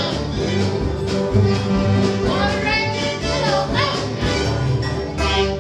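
Acoustic bluegrass band playing a song with a steady picked and strummed beat, and a sliding melody line a little past the middle.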